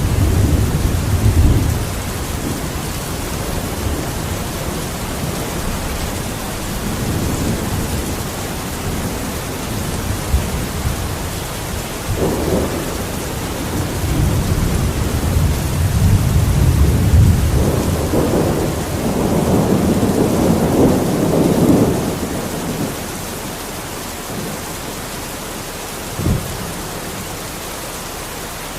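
Steady heavy rain with rolling thunder rumbling in long low swells, loudest through the middle, then easing. A short sharp thunder crack comes near the end.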